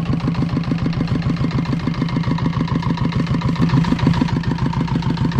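A small engine running steadily at idle, with a fast, even chugging beat.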